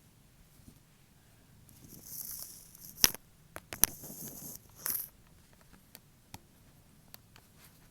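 Fake fingernails tapping and scratching on a hard surface: a short scratchy rustle, then two sharp loud clicks about a second apart, more scratching, and scattered light taps near the end.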